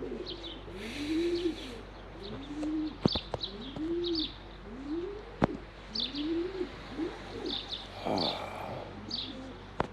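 Domestic racing pigeons cooing: a steady run of low coos, each rising and falling, about one a second. Higher chirping and a few sharp clicks sound over them.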